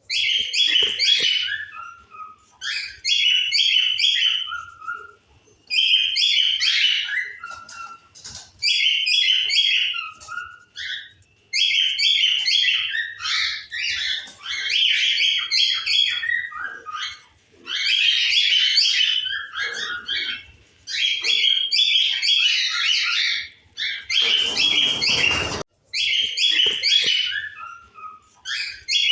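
Cockatiels chirping in repeated short phrases, some notes falling at the end of each phrase. A brief rushing noise cuts in about 24 seconds in.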